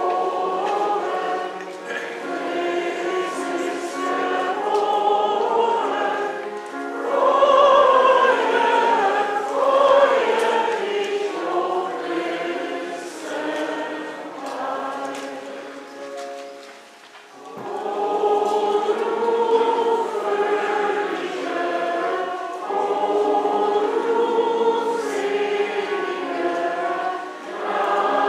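A choir singing a hymn, many voices holding long sung notes, with a short breath between phrases about two-thirds of the way through.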